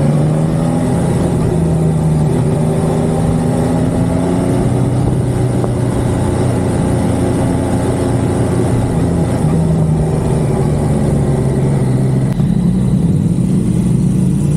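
Motorcycle engine running under way. It rises in pitch about a second in, holds fairly steady with a few shifts, and changes about twelve seconds in as the bike arrives.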